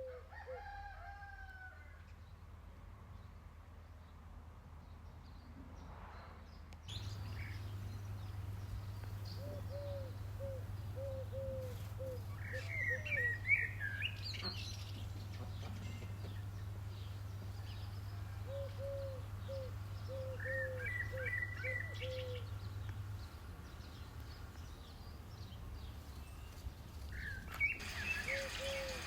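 Hens clucking in short runs of quick repeated notes, with small birds chirping now and then.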